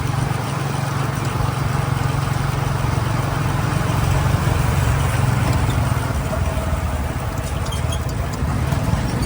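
Motorcycle running steadily at riding speed, its engine hum under a wash of road and wind noise.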